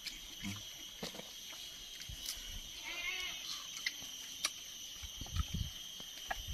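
Soft chewing and small clicks of someone biting and eating water apple with peanut sambal, over a steady high-pitched drone. A brief animal bleat comes about three seconds in.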